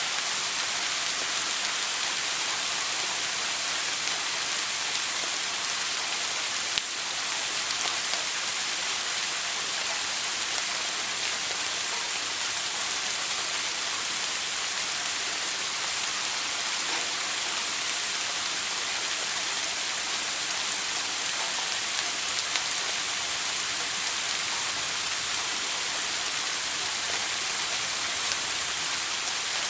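Shower water running steadily: an even, dense hiss of spray, strongest in the high range. There is one small tick about seven seconds in.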